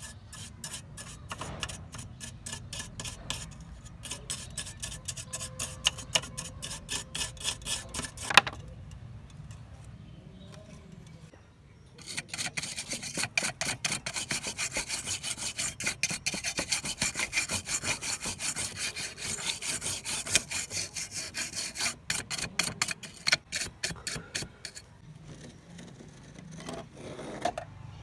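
Rapid back-and-forth rasping strokes of hand abrasion on the lamp, such as sanding or rubbing down its surface. The strokes come in two long runs with a quieter pause of a few seconds between them, and there is one sharp knock about eight seconds in.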